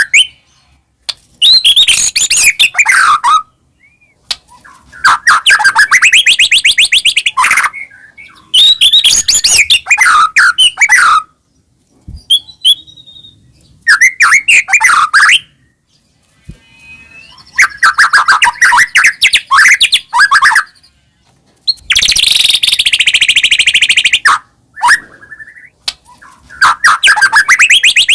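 White-rumped shama (murai batu) singing loud, rapid phrases of varied notes, each phrase a couple of seconds long, with short pauses between them.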